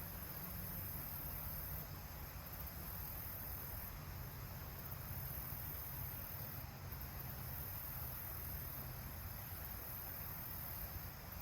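Steady high-pitched chirring of crickets, with a low rumble underneath.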